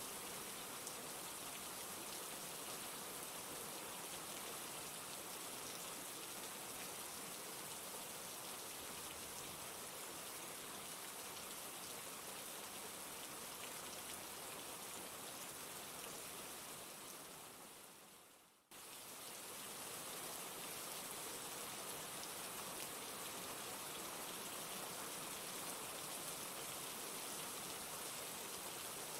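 Steady rain falling. About two-thirds of the way through it fades away over a couple of seconds, then cuts straight back in at full level.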